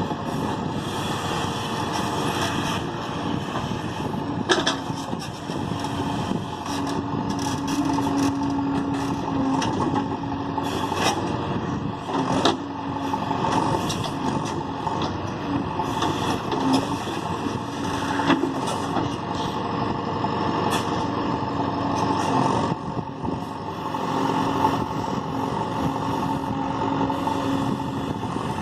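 JCB 3DX backhoe loader's diesel engine running steadily under working load, with a tone that comes and goes. A few sharp knocks are heard.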